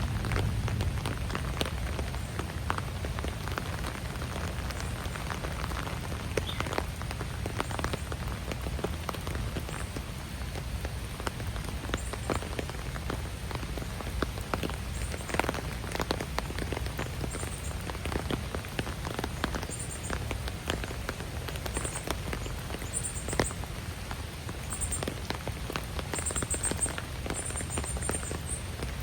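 Raindrops pattering on wet ground and leaves, scattered drop clicks over a steady low rumble. From about twenty seconds in, a bird gives short, very high-pitched chirps, coming more often near the end.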